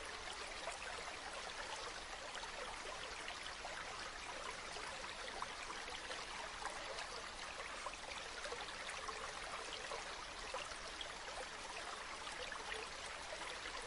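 A shallow stream babbling and trickling steadily.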